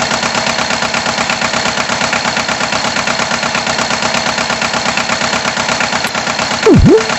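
Tractor engine running steadily with a rapid, even chugging pulse. Near the end a short, loud cartoon sound effect swoops down in pitch and back up.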